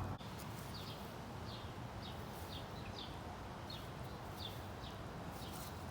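A bird calling outdoors: a run of short, high chirps, each falling in pitch, repeated about twice a second over a steady background hiss.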